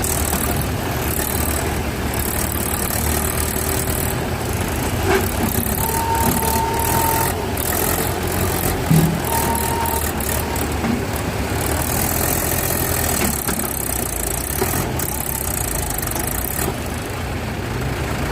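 Mahindra tractor's diesel engine running steadily, with scattered knocks and rattles. Two brief high-pitched tones sound about six and nine and a half seconds in.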